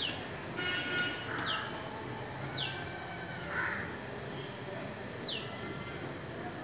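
Birds calling: several short, high whistles that each fall quickly in pitch, with a brief harsh call about a second in.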